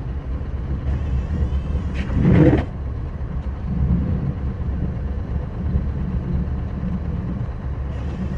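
Scania R560 plow truck's V8 diesel engine running steadily under load, heard from inside the cab as a low drone. A short, louder noise breaks in about two seconds in.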